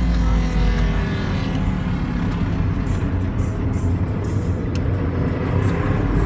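Suzuki GS400 motorcycle with a 450 parallel-twin engine running and being revved in a 'call'. The pitch of the engine shifts about a second in, then it keeps running loudly.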